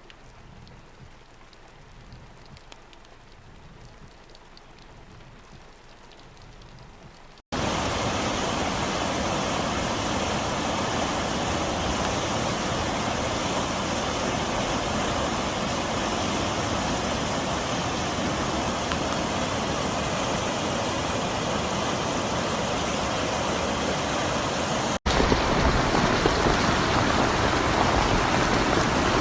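Rain falling, over three separately recorded stretches. For about seven seconds it is faint. A sudden cut brings a much louder, steady heavy downpour. A second cut near the end brings an even louder rush with more low rumble.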